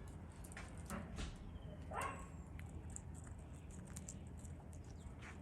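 A few short animal calls, the loudest two falling in pitch about a second apart, over a steady low hum.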